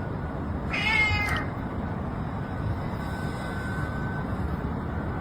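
A cat meows once, briefly, about a second in, over a steady low background rumble.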